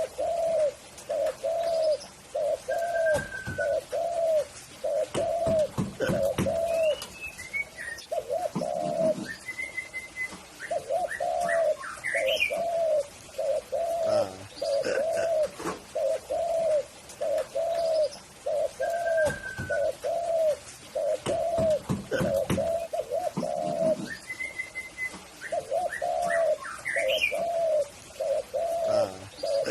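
Spotted dove (tekukur) cooing in long runs of evenly repeated coos, broken by a few short pauses. Higher chirps from other small birds and a few low thumps come in now and then.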